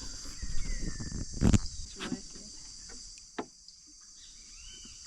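Steady, high-pitched rainforest insect chorus, with a few short knocks and thumps, the loudest about a second and a half in.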